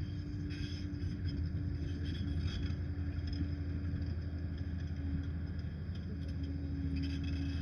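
Liebherr 746 crawler dozer running: a steady diesel engine drone with a held higher tone over it.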